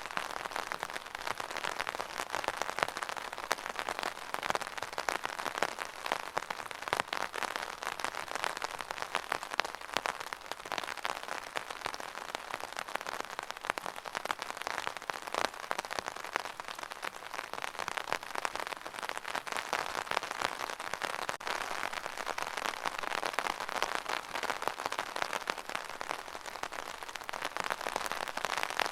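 Steady rain falling on a hard surface: a dense, even patter of drops.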